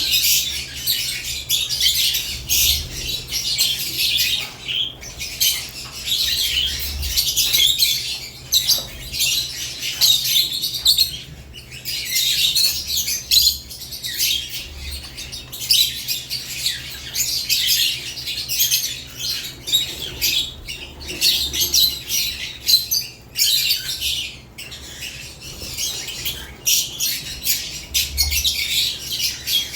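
Pet lovebirds chattering and chirping in their cage: a dense stream of high-pitched calls and squawks with short pauses.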